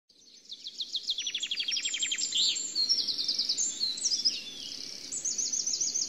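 Several songbirds singing together, with fast trills and runs of short repeated chirps; it fades in over the first second.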